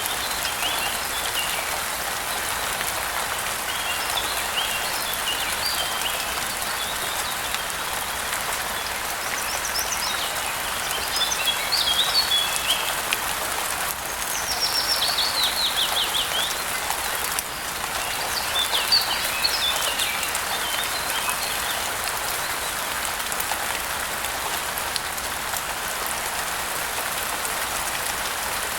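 Steady rain falling, with several bursts of bird chirping over it. About halfway through, one bird gives a quick run of rapid notes that falls in pitch.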